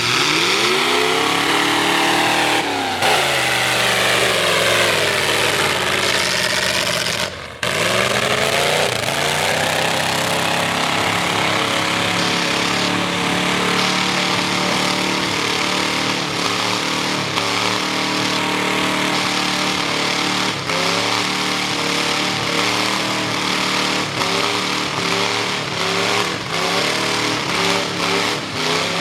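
Straight-piped V8 Ford mud truck with open upright headers revving hard, its pitch climbing and falling under heavy throttle. About seven seconds in the sound drops out for a moment, then climbs again, and later the revs rise and fall quickly with throttle blips.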